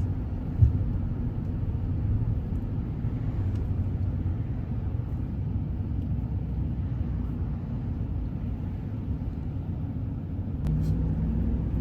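Steady road and engine noise inside a moving vehicle's cabin, with one short knock about half a second in. The low hum grows a little louder near the end.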